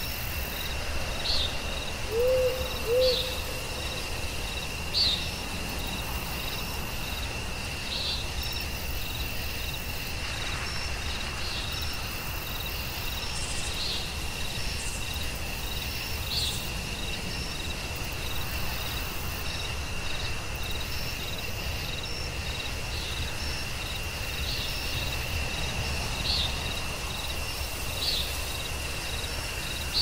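Night-forest ambience: a steady chorus of crickets and other insects, with one constant high drone and rows of short repeated chirps. An owl hoots twice, about two and three seconds in.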